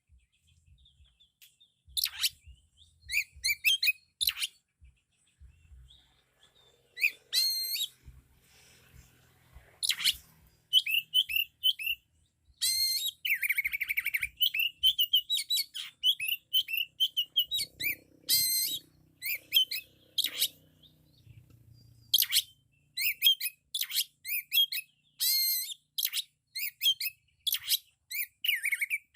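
Oriental magpie-robin (kacer) singing loudly in bursts of rapid, varied whistled phrases packed with imitated notes. It sings in short spurts at first, then almost without pause from about a third of the way in.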